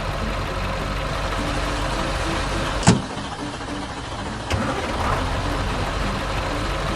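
A vehicle engine running steadily, with a sharp clank about three seconds in and a lighter knock a second and a half later.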